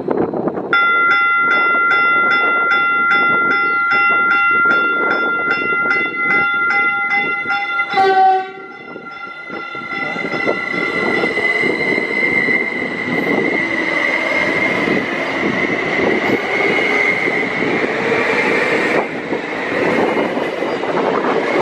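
Caltrain commuter train sounding its multi-tone horn for about seven seconds as it passes, the chord dropping in pitch as it goes by. Then the wheels and cars of a passing train keep running by on the rails with a steady high whine over the rumble.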